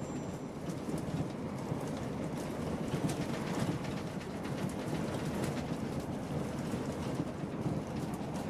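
Inside a Class 158 diesel multiple unit running at speed: a steady rumble of wheels on the track and the underfloor diesel, with frequent quick clicks and rattles from the running gear and the coach.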